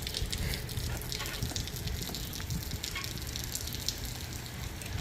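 Rain falling, with many scattered raindrop ticks over a steady low rumble.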